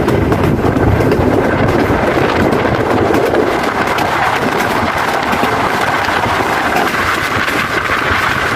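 Passenger train running at speed, heard from an open coach window: a steady rumble and clatter of wheels on the rails mixed with rushing air.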